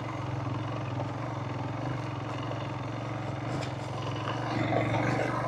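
Motorcycle engine running at a steady, low speed while being ridden.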